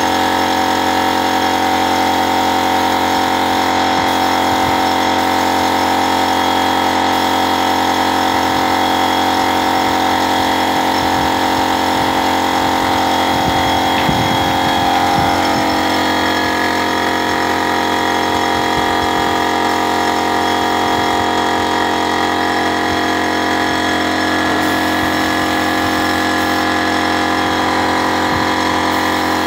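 Steady mechanical hum of a car's running engine, heard from inside the car. The pitch pattern shifts about halfway through.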